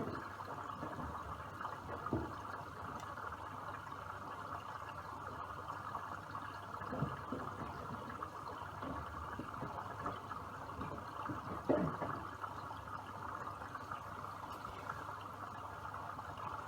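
Miele W1 front-loading washing machine taking in water: a steady rush of water into the drum, with a few soft splashes or thumps from the drum now and then.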